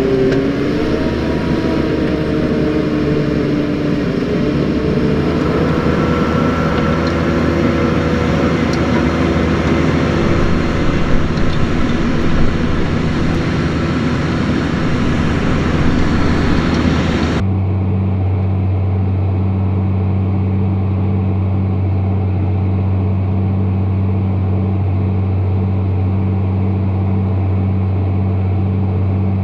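Tractor engine running under load, its pitch shifting up and down over the first few seconds. About seventeen seconds in, the sound changes abruptly to a steadier, duller engine drone.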